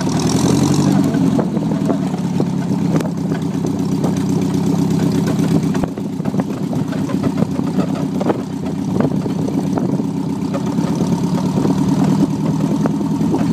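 Motor tricycle's engine idling steadily.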